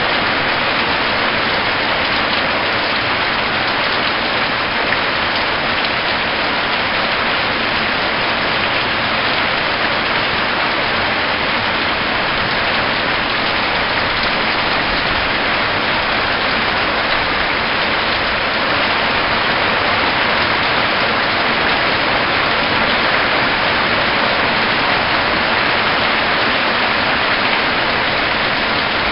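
Heavy storm rain pouring steadily, an even, unbroken hiss of rain falling on the ground and surfaces.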